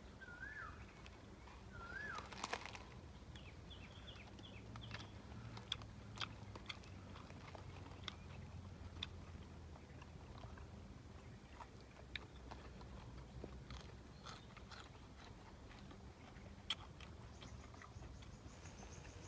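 Faint chewing and biting of roasted beef and fresh leafy greens, with scattered small crunches.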